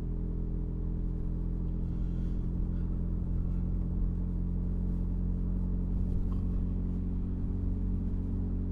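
Audi car's engine and exhaust running steadily while driving, holding an even, unchanging engine note.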